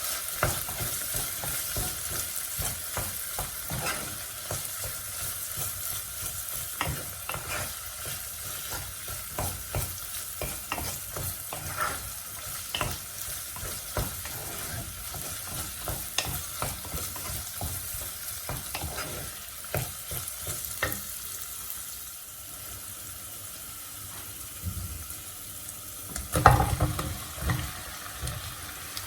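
Food sizzling in a frying pan while it is stirred, a utensil tapping and scraping against the pan many times. The stirring thins out about three-quarters of the way through, leaving the sizzle, and a loud clatter comes near the end.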